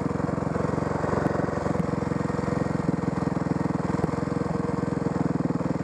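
Dirt bike engine idling steadily, with a fast, even firing beat.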